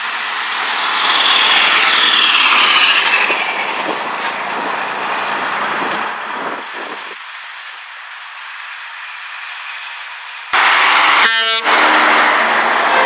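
A vintage truck drives past with a broad rushing engine and tyre noise that fades away, then about ten seconds in a loud truck air horn sounds, two blasts with a short break between them.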